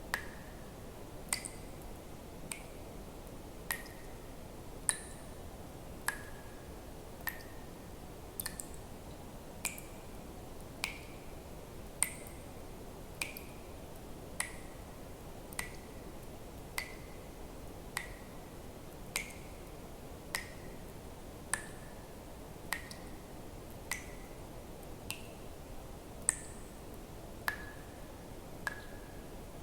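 Water drops falling one at a time into water at an even pace, roughly one every second and a bit. Each is a sharp click followed by a short, high ringing plink, over a faint steady hiss.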